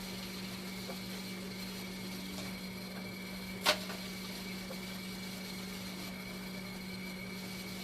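Dialysis machine running with a steady hum and a faint constant high whine, with one sharp click a little past halfway through.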